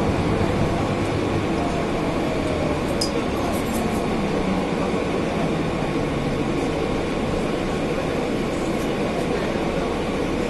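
Inside a Mercedes-Benz O405N city bus under way: its engine and air conditioning run together as a steady drone. A few light clicks come about three seconds in.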